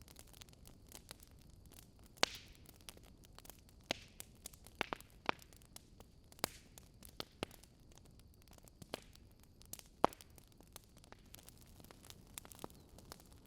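Wood fire crackling: irregular sharp pops and snaps from burning logs over a faint hiss, with the loudest pops about two seconds in and about ten seconds in.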